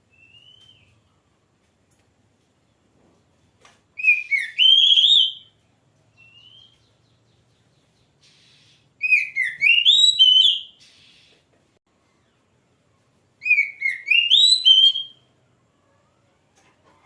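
Oriental magpie-robin singing in full voice: three loud phrases of rising and falling whistled notes, each lasting about a second and a half and several seconds apart, with a couple of soft single whistles between them.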